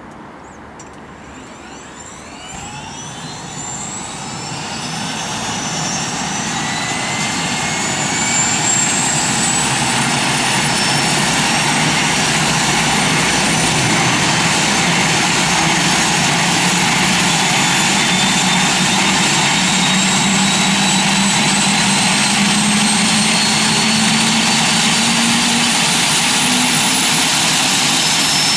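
Airbus H145 helicopter's twin turbine engines spooling up. The turbine whine climbs slowly in pitch and grows louder over the first ten seconds, then holds at a steady loud level as the rotor comes up to speed.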